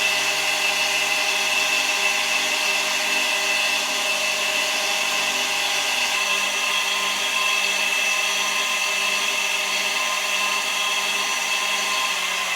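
An electric power tool's motor running at a steady high speed.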